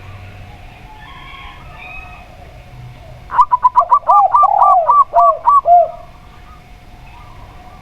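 Zebra dove and spotted dove cooing together: faint coos, then about halfway through a loud two-and-a-half-second run of quick, short, high coos, about eight a second, with slower, lower, arching coos mixed in.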